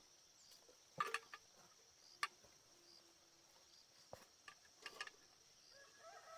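Near silence: faint steady insect chirring, broken by a few sharp clicks and knocks about a second in, at two seconds, and around four to five seconds in.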